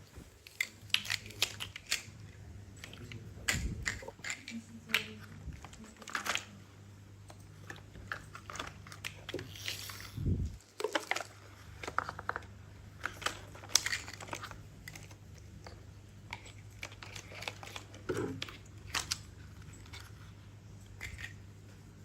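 Toy pieces being handled: irregular light clicks and clacks, with a couple of duller thumps, over a steady low hum.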